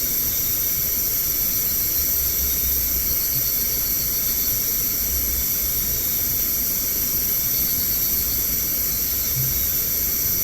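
Steady, high-pitched chorus of night insects such as crickets, layered at several pitches, with a faint pulsing trill that comes in briefly a few times.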